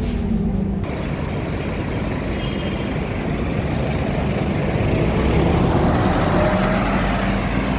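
Scania K230UB single-deck bus running, its diesel engine humming under road and body noise, getting a little louder past the middle.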